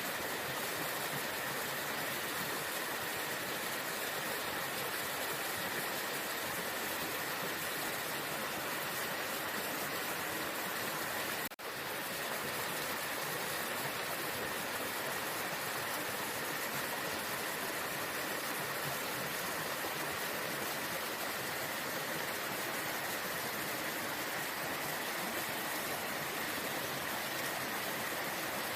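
Waterfall: the steady rush of falling water, even and unbroken apart from a momentary dip about halfway through.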